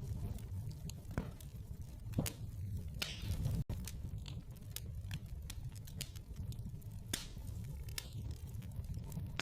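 Wood fire crackling in a fireplace: irregular sharp pops and snaps over a steady low rumble. The sound cuts out for an instant a little under four seconds in.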